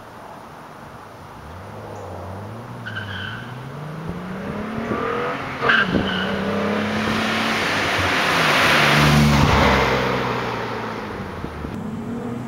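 Nissan 300ZX's V6 through a Stillen cat-back exhaust, accelerating hard and shifting up a gear, rising in pitch. A sharp crack comes about halfway through, and the car's noise swells as it passes, then fades.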